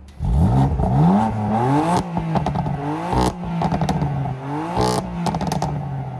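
BMW F80 M3's twin-turbo inline-six in Sport Plus mode, revved hard toward redline several times with the pitch climbing and falling back. Its exhaust gives sharp cracks and pops as the revs drop.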